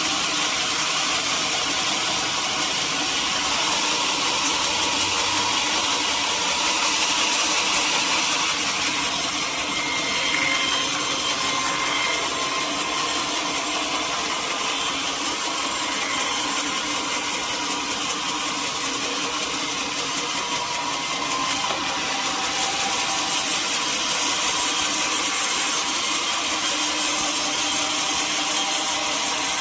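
Sawmill saw cutting through teak wood, a steady loud noise.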